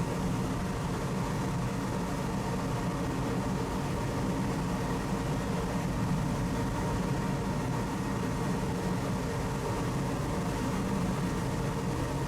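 Steady low drone of a ferry's engines and machinery, with a constant hum.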